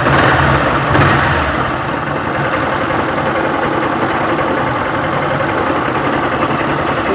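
Honda 160's single-cylinder motorcycle engine idling in neutral, with a rattling noise from the clutch: a sign of the blown bearing behind the clutch basket, with play letting the clutch vibrate. The noise is present in neutral and goes quiet once a gear is engaged. It is louder twice within the first second or so.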